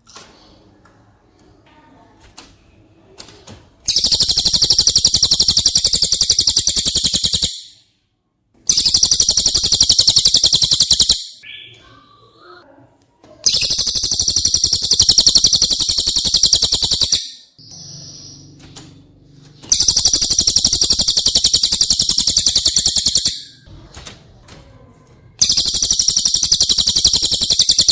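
Cililin song: long, loud, very fast high trills of three to four seconds each, repeated five times with short pauses between, the first starting about four seconds in. Faint chirps fill the pauses.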